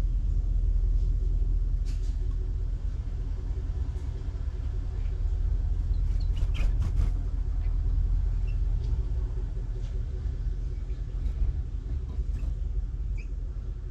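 Steady low rumble, with a few short, faint bird chirps over it and a brief run of clicks about halfway through.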